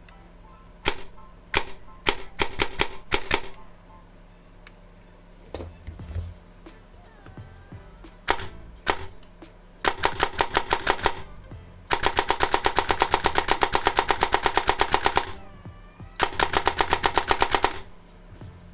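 Krytac Kriss Vector airsoft electric gun with a dual-sector-gear (DSG) gearbox and Perun electronics firing. It fires a few single shots and a quick string of shots, then several rapid full-auto bursts, the longest about three seconds.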